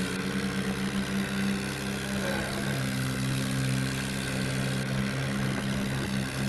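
Farmtrac tractor's diesel engine running steadily, its note shifting a little lower about two and a half seconds in.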